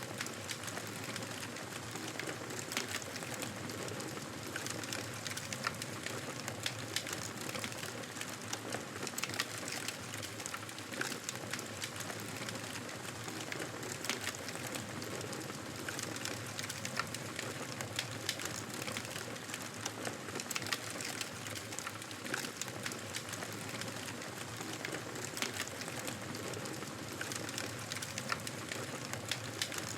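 Wood fire crackling in a fireplace: frequent sharp pops and snaps over a steady hiss.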